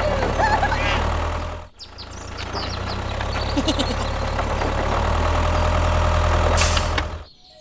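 Small mini tractor engine running steadily at idle, dropping out briefly about two seconds in and cutting off near the end, with a few birds chirping.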